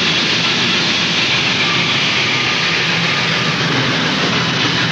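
Steady, unbroken roar of a moving train, heard on an old 16mm film soundtrack.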